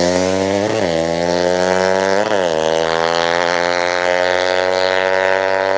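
200cc drag-racing motorcycle engine running hard at high revs, its pitch easing slowly down with a few brief blips.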